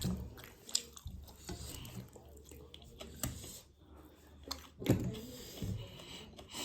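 A person chewing and eating mutton curry with rice, with wet mouth and squishing sounds and scattered clicks, one sharp click about five seconds in.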